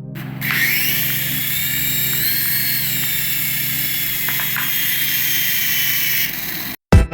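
Small electric motor of a remote-control toy running with a steady high-pitched whine. It spins up just after the start and cuts off suddenly near the end.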